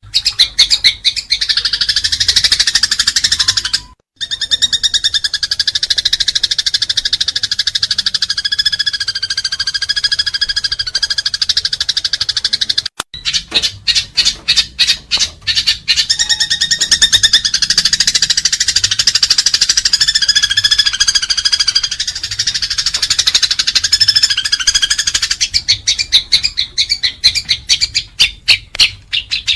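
Eurasian tree sparrows chattering in a fight: a dense, rapid run of high chirps. It breaks off briefly about 4 and 13 seconds in, and thins to separate loud chirps near the end.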